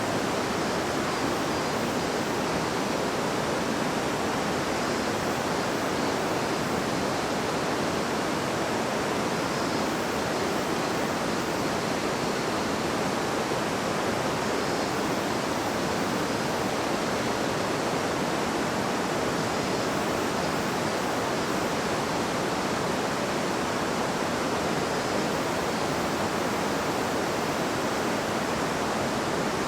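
River water babbling and rushing over rocks: a steady, even noise.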